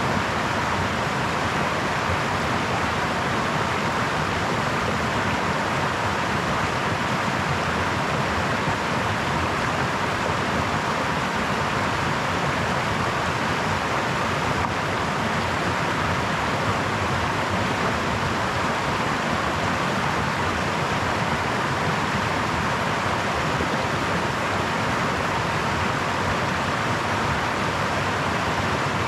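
Brook flowing: a steady, even rush of babbling water with no breaks or changes.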